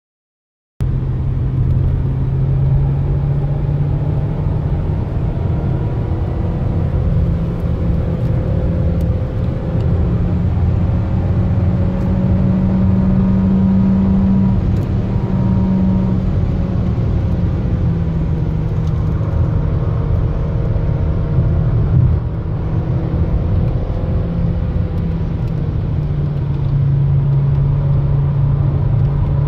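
Volkswagen Jetta 250 TSI's 1.4-litre turbocharged four-cylinder engine pulling under acceleration, heard from inside the cabin over a heavy low drone of tyre and road noise. The engine note rises and falls gently, and the sound cuts in abruptly about a second in.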